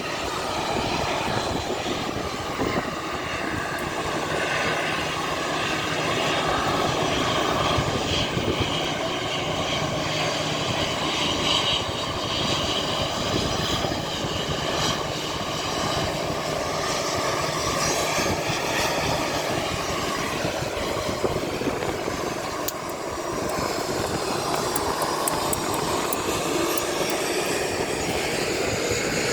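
Passenger jet's engines running steadily, a continuous rushing noise whose tones drift slowly up and down as the aircraft moves.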